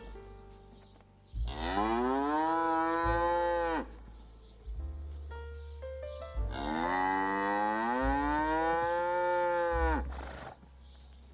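Dairy cow mooing twice, two long moos, each rising in pitch at the start, holding, then dropping away at the end, over a low rumble.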